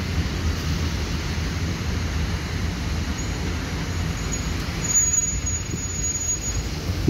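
Freight train of open-top wagons rolling past: a steady rumble of wagon wheels running over the rails. A faint high squeal comes and goes through the middle.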